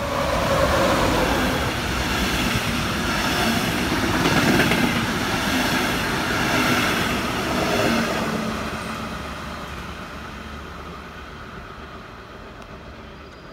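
Red DB regional train, an electric locomotive hauling double-deck coaches, running past close by. The noise is loudest for the first eight seconds or so, then fades steadily as the train moves away.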